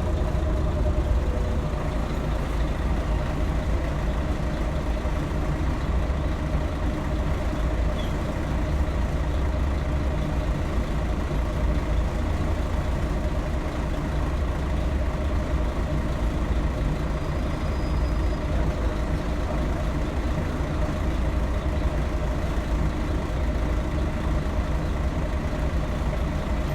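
Scania L113CRL city bus heard from inside the passenger cabin, its engine running steadily with a low drone and no change in pitch.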